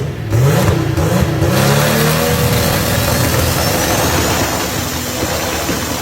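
Chevrolet Opala straight-six engine with a loud exhaust rumble, revved in three quick throttle blips and then held at higher revs for several seconds. A thin high whine rises about three seconds in and holds steady.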